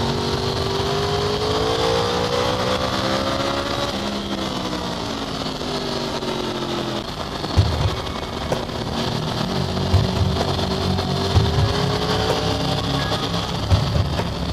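2009 Yamaha R1's crossplane inline-four, the 'big bang' firing order, heard onboard: it rises in pitch under acceleration for about four seconds, then falls as it slows. After that it runs with a rougher, lower rumble and a few knocks, and its pitch climbs slowly again.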